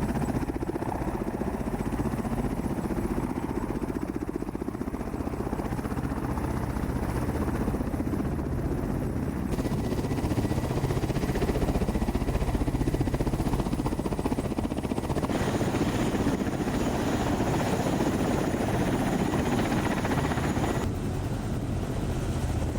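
Kamov Ka-52 attack helicopter flying: the rapid, steady chop of its coaxial rotors over turbine engine noise. The tone shifts abruptly three times.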